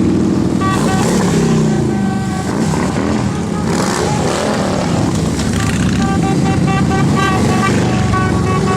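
Several motorcycle engines running and revving together, with short high tones repeating above them.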